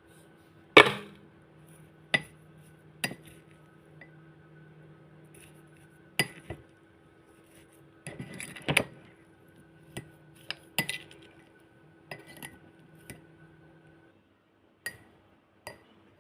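Sharp clinks and knocks of dishes and utensils, about a dozen at irregular intervals, the loudest about a second in. A steady low hum underneath stops about two seconds before the end.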